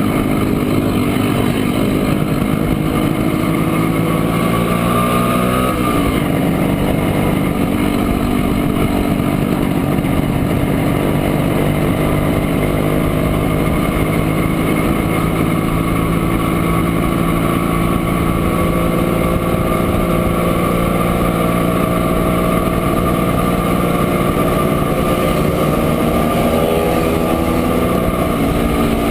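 1967 Montesa Impala Comando 175 cc two-stroke single-cylinder engine running under way. The revs dip and change pitch about six seconds in and again near the end, as at a gear change.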